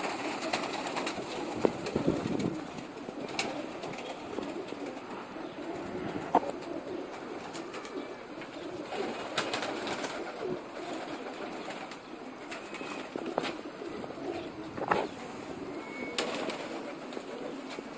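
A flock of domestic pigeons cooing together in a loft, a steady overlapping murmur, with a few sharp clicks and taps from the birds moving about.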